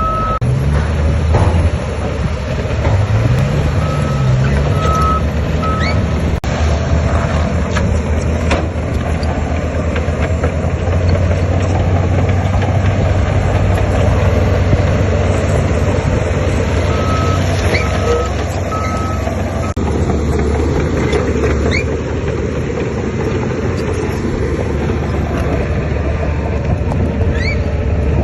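Diesel engines of heavy earthmoving machinery (bulldozer and dump trucks) running steadily, with the engine revving up briefly about three seconds in. A reversing alarm sounds twice, each time a short run of about four beeps: once about four seconds in and again past the middle.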